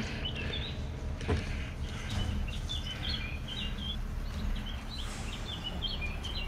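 A songbird singing short, high chirping phrases over and over. Underneath is a steady low rumble, and there is a single sharp snap just over a second in.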